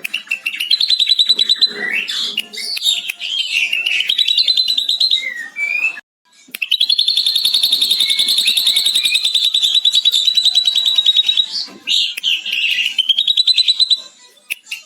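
Ashy drongo singing long runs of very fast, high chattering trills mimicking a lovebird's 'ngekek' call, with a brief break about six seconds in.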